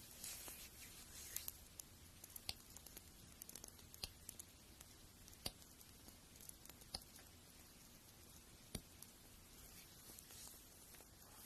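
Faint, close-up scratchy strokes of a fingernail being ground with a file, near the start and again near the end, with scattered sharp little clicks and taps in between.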